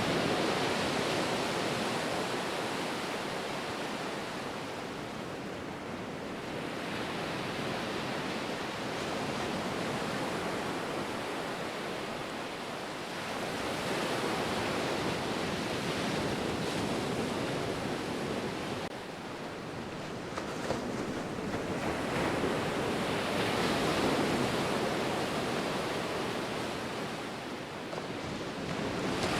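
Ocean surf: waves breaking and washing in a steady rush that swells and eases every several seconds.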